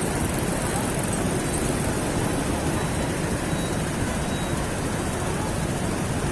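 Motorcycle riding through city traffic: a steady, unbroken rumble of engine and road noise.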